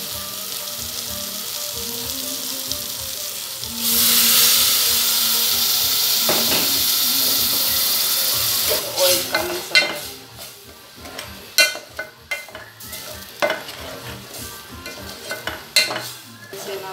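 Chili-and-curry-powder masala with tomato sizzling in a hot aluminium pot. About four seconds in, water poured into the pot sets off a much louder hiss that lasts about five seconds. After that a wooden spoon stirs the thickening masala, in irregular scrapes and knocks against the pot.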